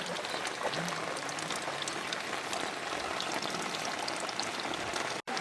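Heavy rain falling steadily, with many separate drops pattering on a hard surface. The sound drops out for an instant just before the end.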